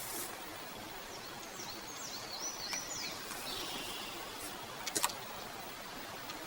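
A bird singing a quick run of short, high chirps for a couple of seconds, over a steady outdoor hiss. Two sharp clicks come about five seconds in.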